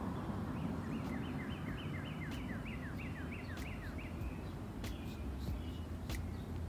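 A songbird sings a fast run of about fifteen short down-slurred whistled notes, roughly four a second, which stops about four seconds in. A steady low rumble lies underneath, and a few sharp clicks come near the end.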